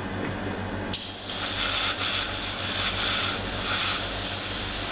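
Airbrush spraying light gray lacquer paint: a steady hiss that starts abruptly about a second in, over a low steady hum. The paint is going on in spider-web strands.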